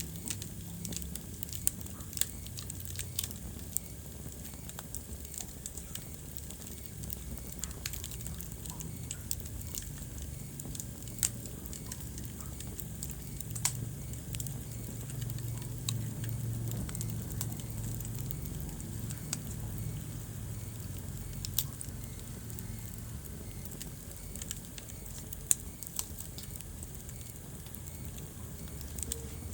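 Wood fire burning in a fireplace: a steady low rumble of flames under frequent small crackles, with a few sharper pops scattered through.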